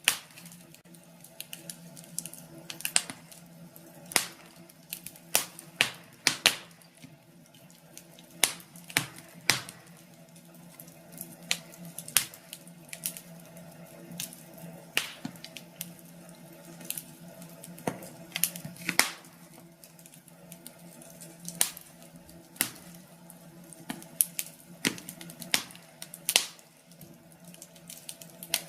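Wood fire in a fireplace crackling: irregular sharp pops and snaps, at times several a second, over a steady low hum.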